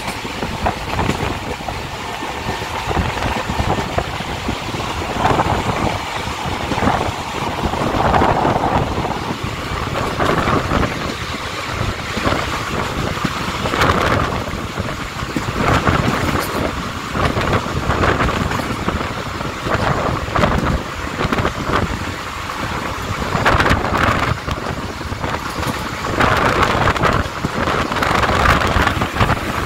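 Passenger train running, heard from on board: a steady rumble with irregular knocks and clatter, and wind buffeting the microphone.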